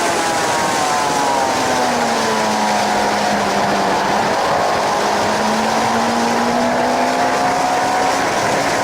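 Suzuki GSX-R 750 K7's inline-four engine heard onboard under heavy wind noise. The revs fall over the first couple of seconds, hold low for a few seconds, then climb again near the end as the bike drives on.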